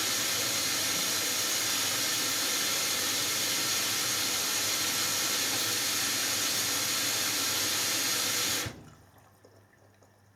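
Hoover Dynamic Next washing machine filling with water for its last rinse: a steady rush of incoming water that cuts off suddenly near the end as the fill stops.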